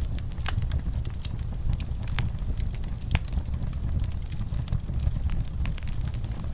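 Wood fire burning in a fireplace: a steady low rumble of flame with frequent irregular crackles and pops, two of them sharper, about half a second and about three seconds in.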